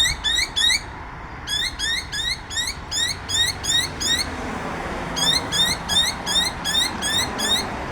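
A bird calling a rapid series of short, identical rising chirps, about three a second, in three bouts separated by pauses of about a second.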